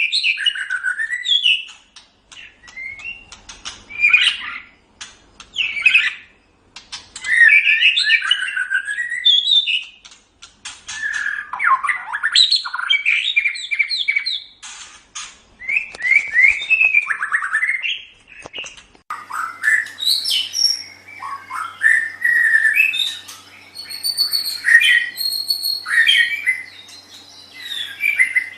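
White-rumped shama (murai batu) singing: loud bursts of varied whistled and harsh phrases with short pauses between them. A faint steady hum joins about two-thirds of the way through.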